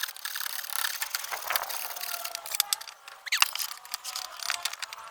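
Hand work on wood: irregular scraping and rasping with many sharp clicks and knocks, and one louder knock with a short squeak about three and a half seconds in.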